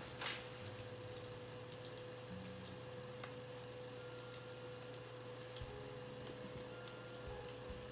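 Irregular snapping crackle of a recorded campfire, played back from an iPad, over a steady low hum with a faint steady tone. The hum is the electric fireplace's warm-air heater running.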